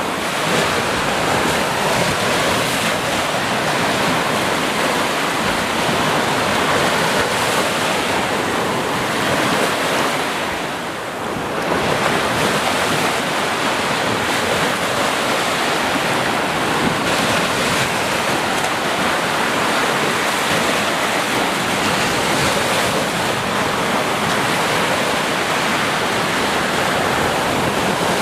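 Ocean surf, waves washing continuously onto a shore, with a brief lull about eleven seconds in before the next wave swells back.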